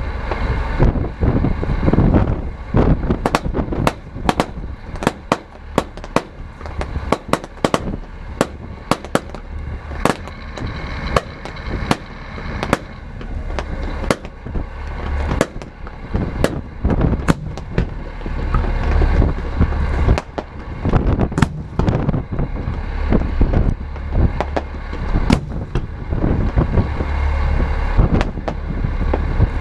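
Aerial fireworks bursting in a rapid barrage of sharp cracks and bangs, densest in the first half and thinning toward the end, over a steady low rumble.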